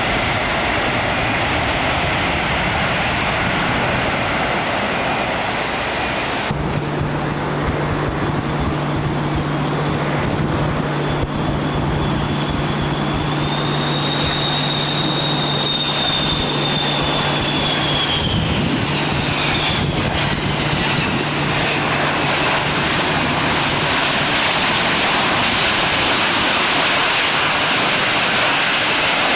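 Airliner engines running over a dense steady hiss of heavy rain. A low hum starts abruptly about a quarter of the way in. Through the middle a high engine whine rises slightly, then glides down in pitch and fades as the aircraft goes by.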